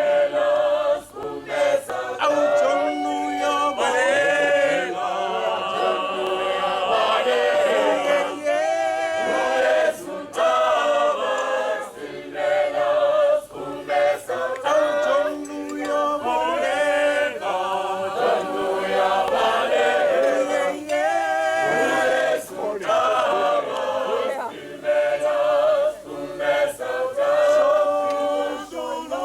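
A choir singing a cappella, several voices together in harmony with no instruments.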